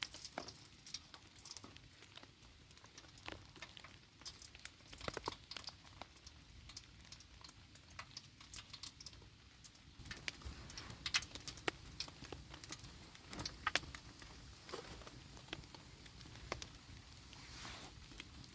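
Rain dripping and pattering: irregular, scattered drops ticking onto surfaces, heavier and denser from about halfway through.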